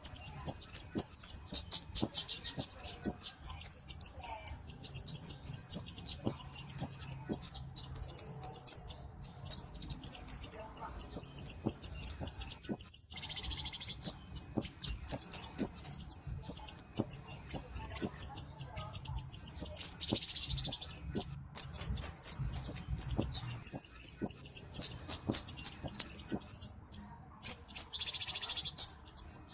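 Flowerpecker ('cabe-cabean') song: fast runs of high, thin chirping notes, several a second, in bursts of a few seconds with short breaks, broken three times by a brief raspy, hissing note.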